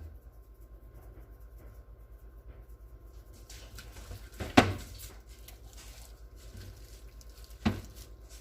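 Kitchen handling noises from seasoning being put on a roast: faint rustling and crackling, then two sharp knocks about three seconds apart, the first the louder, over a steady low hum.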